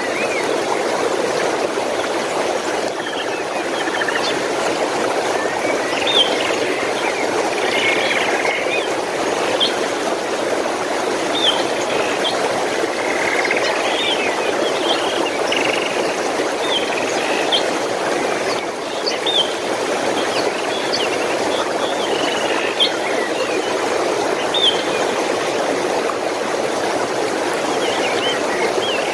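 Running stream water, a steady rushing flow, with small birds chirping over it in short, scattered calls every second or two.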